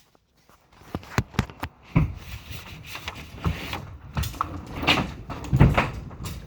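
A series of sharp clicks, then several heavier knocks and thumps with rustling in between, like objects being handled or set down.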